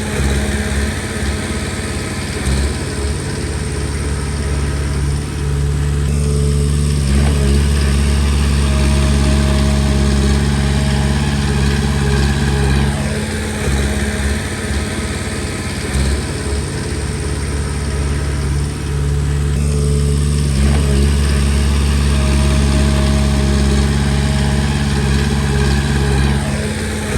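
Komatsu D20P bulldozer's diesel engine running, with its note easing and picking up again in a repeating cycle about every six to seven seconds as the machine works back and forth.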